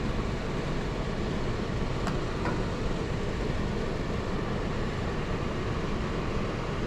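Air handler blower driven by an X13 motor running steadily, a constant rush of moving air, with two faint clicks about two seconds in.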